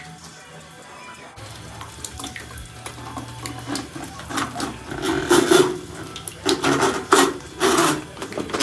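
Water running and splashing into a shower drain, growing louder and more uneven with repeated surges from about halfway through. The drain, just cleared, is taking the water away quickly.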